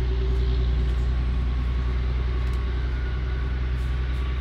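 Steady, loud, low mechanical drone of a running motor or engine.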